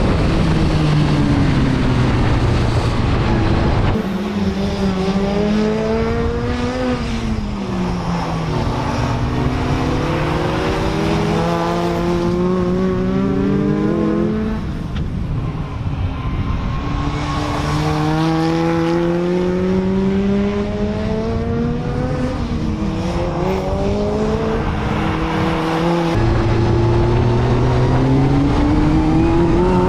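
BriSCA F2 stock car engine lapping a short oval track, revving up and easing off in repeated cycles every few seconds, the pitch climbing along the straights and dropping into the turns.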